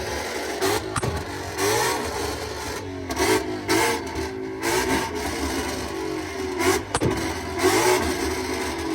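Modified car engine revved repeatedly in short blips, the pitch climbing and dropping about once a second, with a sharp crack from the exhaust about a second in and again near seven seconds in.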